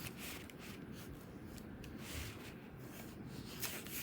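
Faint rubbing and scraping with a few light clicks, the sound of toy trains being handled and moved, under low room noise.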